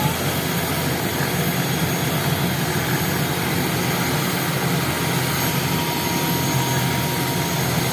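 Medical rescue helicopter's turbine engine and rotor running steadily.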